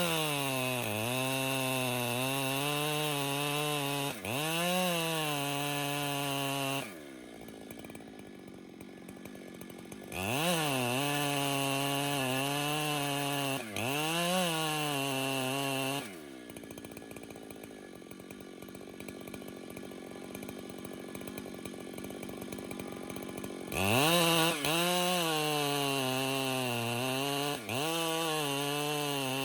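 Chainsaw ripping a cedar log lengthwise, running at full throttle in three long cuts and dropping to idle twice in between, for a few seconds each time. The engine pitch sags briefly now and then as the bar loads up in the cut.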